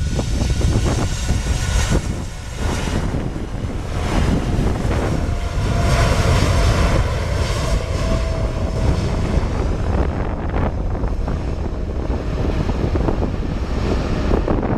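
Boeing 747-8 freighter's four GEnx turbofans at takeoff power: a steady deep rumble with a faint whine in the middle, mixed with wind buffeting the microphone.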